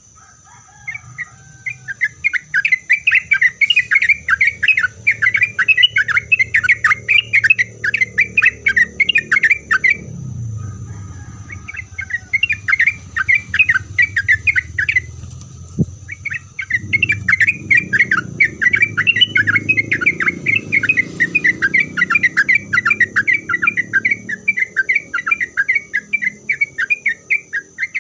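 Yellow-vented bulbul (trucuk) singing a long, fast chattering song of rapid bubbling notes, in three runs broken by short pauses about ten seconds in and again around fifteen seconds.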